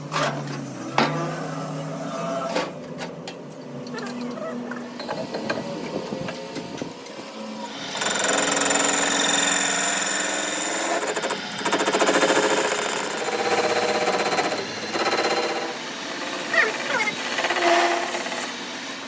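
Scattered metal knocks and clicks, then about eight seconds in a hand-held power tool starts working on metal with a fast, dense rattle. It pauses briefly a few times and starts again.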